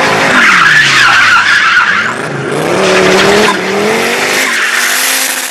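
Slalom race car driven hard through the course: its engine revs rise and fall repeatedly while the tyres squeal and skid, the squeal loudest in the first couple of seconds.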